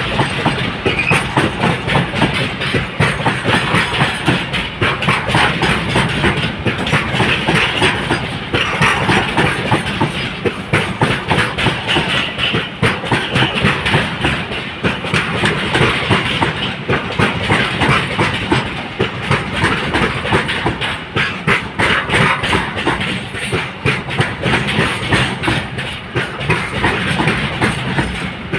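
Container freight train wagons rolling past close by: steel wheels clattering in a rapid, continuous run of clicks over the rail joints, over a steady rumble.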